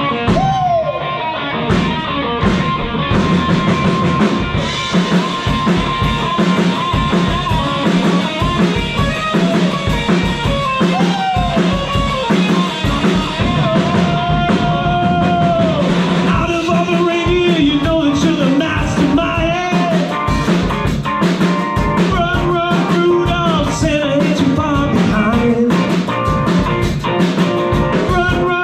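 Live rock band playing at full volume: electric guitar and drum kit with a steady beat, sliding guitar notes now and then.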